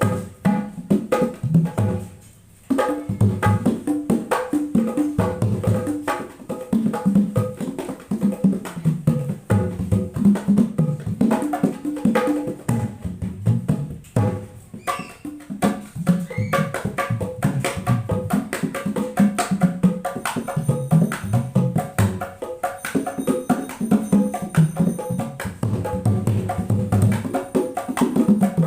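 Sundanese jaipong kendang drums played in fast, dense rhythmic patterns, with deep bass strokes that bend in pitch and sharp higher slaps, breaking off briefly about two seconds in. It is a sound test of the freshly serviced drum set.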